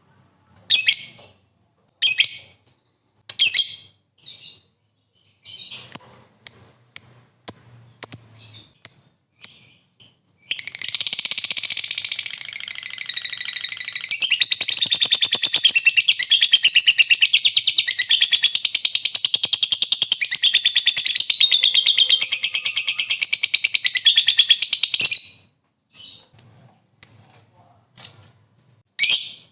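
Lovebird calling: sharp, separate shrill chirps for about ten seconds, then one long, unbroken, fast chattering trill (the 'ngekek panjang' prized by lovebird keepers) lasting about fifteen seconds, then separate chirps again.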